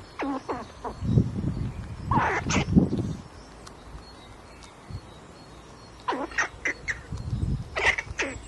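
Animal calls: several short, pitched calls in quick clusters, with a quieter pause of about two seconds in the middle.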